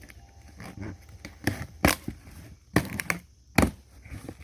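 Packaging being opened by hand: irregular crackling and rustling, with several sharp, loud snaps.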